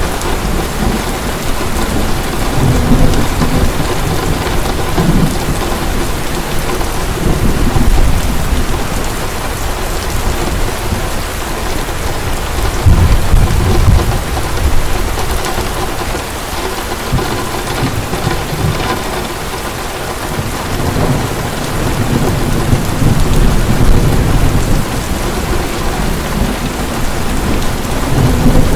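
Heavy rain pouring steadily, with low rolling thunder rumbling in and out every few seconds.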